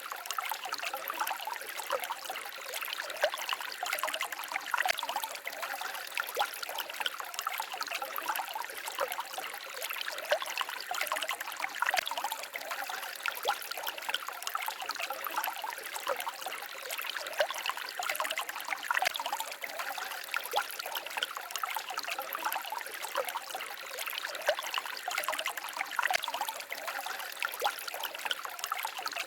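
Small forest stream babbling and trickling over stones, a steady splashing with many small bright splashes and little low rumble.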